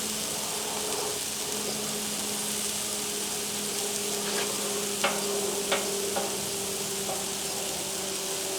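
Sliced Roma tomatoes sizzling on a hot Blackstone flat-top griddle: a steady frying hiss, with a few sharp clicks about halfway through.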